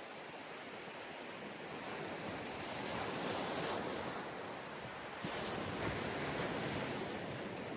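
Ocean surf washing onto a sandy beach: a steady rush of waves that swells about two seconds in, then rises again abruptly about five seconds in as the next wave breaks.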